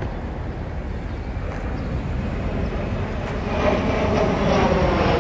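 Outdoor city traffic noise: a steady low rumble, with a passing vehicle growing louder from about three and a half seconds in.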